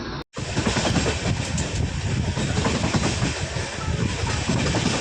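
Passenger train running along the track, heard from aboard a coach: a steady rumble of wheels on rails with faint clicks. A brief dropout to silence near the start marks an edit cut.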